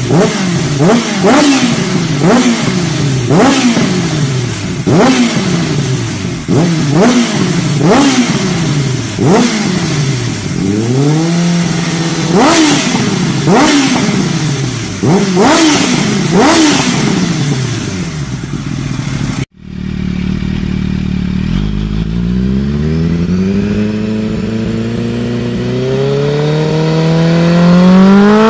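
Kawasaki H2's supercharged inline-four revved repeatedly, the pitch rising and falling about once every second and a bit, with sharp cracks from the exhaust at each rev. Near the middle it cuts off suddenly; then the engine climbs in one long, steadily rising rev.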